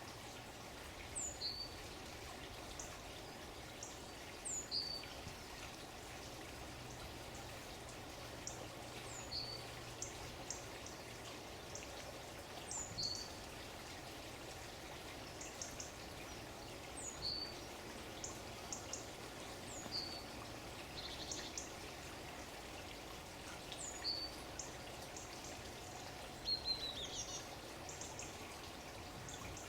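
Songbirds calling over steadily running water. A short, high two-note call repeats every three or four seconds, with brief chirps in between.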